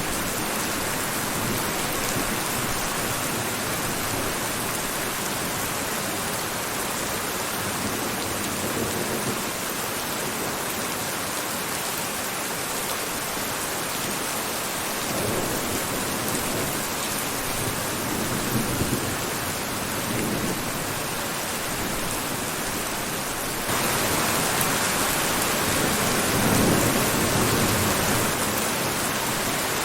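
Steady rain falling, with low rolls of thunder rumbling through the second half. The rain steps up louder about three-quarters of the way through.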